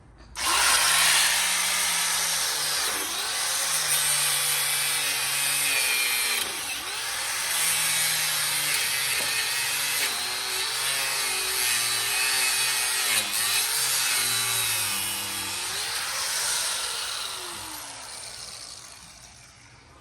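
Angle grinder cutting into a billet wheel: it starts about half a second in and runs with a loud, harsh cutting noise. Its motor pitch dips again and again as the disc bites. It then winds down and fades near the end.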